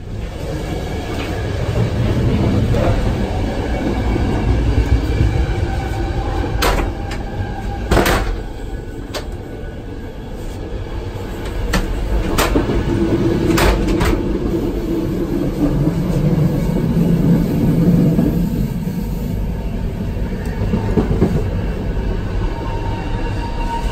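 Italian FS overnight coach running on the rails, a steady rumble heard from inside the carriage. Several sharp clacks come about seven to fourteen seconds in, from the toilet door's metal lever handle and latch being worked.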